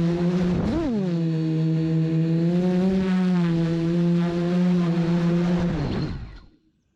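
Motors and 10-inch props of an FPV quadcopter (Brother Hobby 3115 900KV motors, 10x7 props) whining steadily, with a quick throttle blip about a second in. Near the end the pitch drops as the motors spin down and stop.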